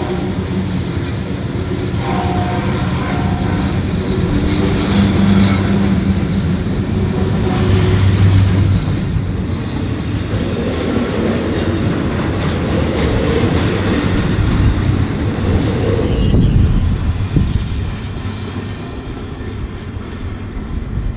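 Freight train passing on the tracks: a loud, steady rumble with a low engine hum, then the clatter of the rail cars, easing off near the end.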